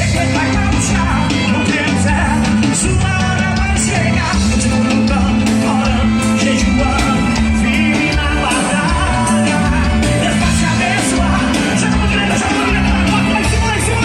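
Live gospel worship band playing a song with drums, bass and a lead singer, loud and continuous, with some shouting.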